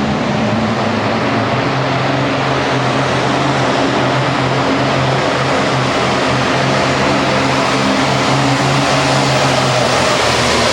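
Super Farm class pulling tractor's diesel engine running flat out at high revs through a pull. It is a loud, steady, unbroken engine and exhaust noise with a constant low drone.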